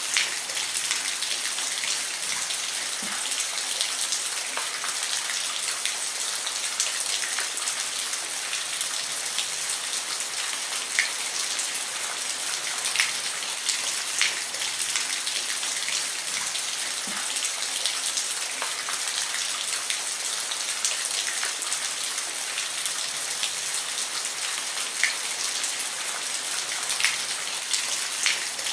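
Steady rain falling on a roof, an even hiss with single drops ticking sharply here and there.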